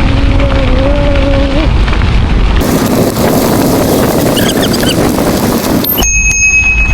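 Wind buffeting a handlebar or helmet camera's microphone while riding, with a steady whine from the bike for the first second or two. It cuts abruptly to a rushing hiss like rain or running water, then about six seconds in to a much quieter stretch with a faint steady high tone.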